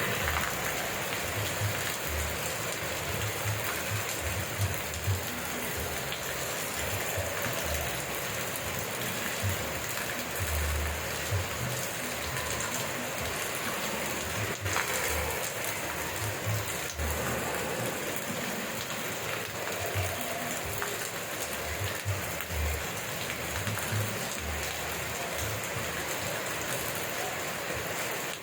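Steady rain falling in an even hiss, with frequent brief low rumbles and a couple of faint ticks.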